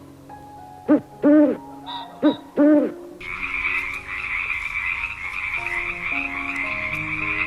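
Animal calls: two pairs of short hoots that rise and fall in pitch, then, a bit past three seconds in, a steady, high buzzing chorus, over soft background music.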